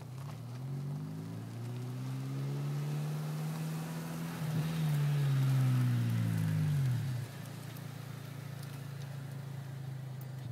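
Four-cylinder car engine with aftermarket exhaust and intake, its note climbing steadily in pitch for a few seconds, holding, then falling away about seven seconds in. A steadier lower engine hum carries on under it and stops abruptly at the end.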